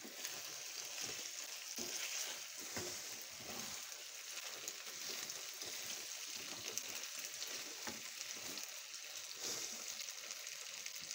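Frozen pelmeni frying in butter in an open frying pan, a steady sizzle, while a wooden spatula stirs them and scrapes against the pan with short, irregular strokes.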